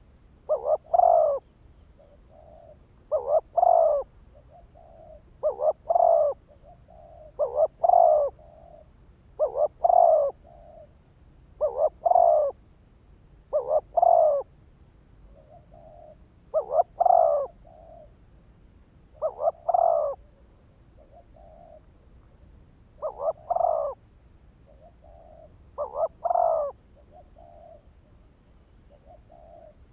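Spotted dove cooing over and over, a phrase about every two seconds: two quick short notes then a longer coo, with a softer note between phrases.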